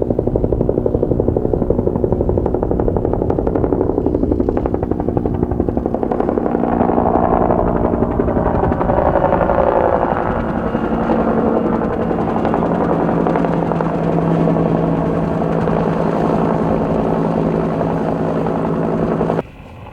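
Huey helicopter running: steady turbine and rotor noise with a fast, even rotor beat, cutting off suddenly near the end.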